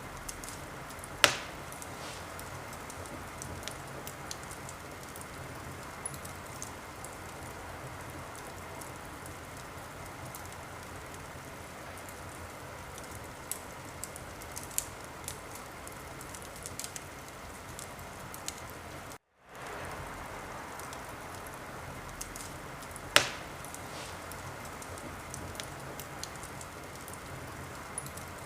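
Wood fire in a fireplace burning with a steady hiss and scattered small crackles, with two sharp loud pops, one about a second in and one near the end. The sound cuts out completely for a split second about two-thirds of the way through.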